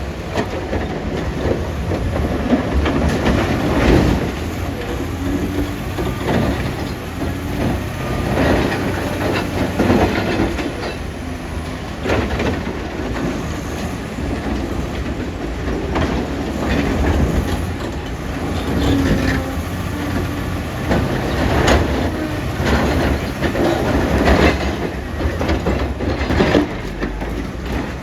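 Caterpillar 966D wheel loader's diesel engine running steadily under load, with irregular heavy knocks and clatter of large rocks striking steel as they are scooped and dumped into a dump truck.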